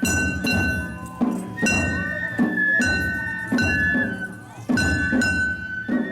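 Japanese festival float music (hayashi): drum strokes in a steady rhythm about once a second, each with a ringing metallic strike.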